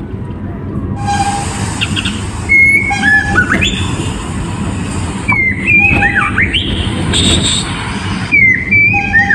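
A songbird singing loud whistled phrases: held clear notes and quick rising and falling slurs, repeated in short bursts that start about a second in, over a steady low rumble.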